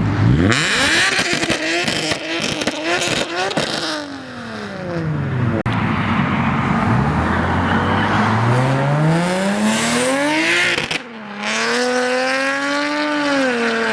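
Infiniti G37's V6 revved hard in quick blips, its exhaust crackling and popping as it shoots flames. An engine then revs up slowly, cuts off sharply for a moment near the end, and settles into a steady, wavering drone.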